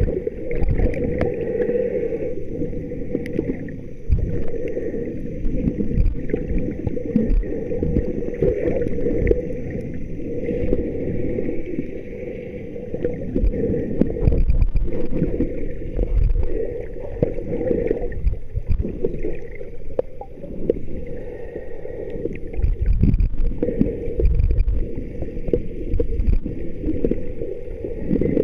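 Muffled water sloshing and splashing, uneven and continuous, with irregular low thumps.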